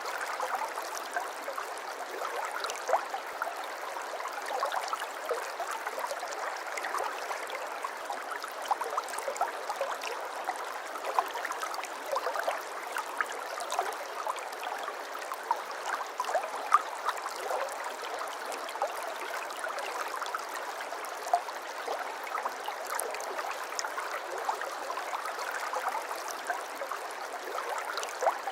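Babbling stream: water flowing steadily, with many small splashes and gurgles.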